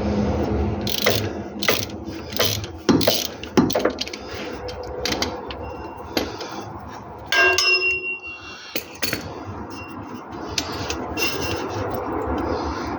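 Hand tools working on metal under a car: irregular clicks and knocks, with a ringing metal clink about seven and a half seconds in.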